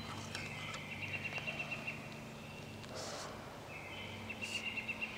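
A songbird's fast trill, sung twice, each phrase about a second and a half long.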